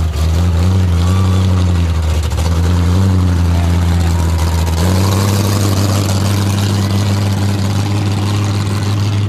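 Car engine with open exhaust headers idling loudly, its note wavering unevenly, then settling into a steadier, slightly higher idle about five seconds in.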